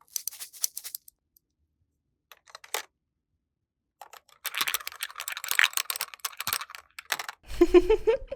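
Rapid light clicking and tapping of small utensils on miniature play-kitchen ware: a few clicks at the start, then a dense run of clicking and scraping. A short, louder rising pitched sound comes near the end.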